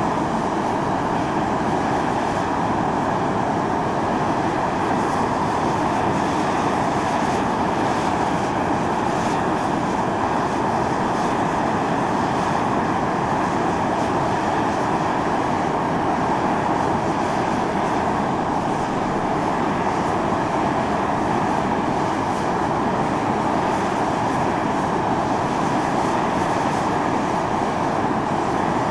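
Volcanic fumarole at Mt. Io (Atosanupuri) venting steam and gas under pressure: a steady, unbroken hiss that neither rises nor falls.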